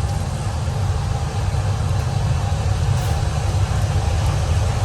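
A steady low mechanical rumble, like a large machine or engine running without change.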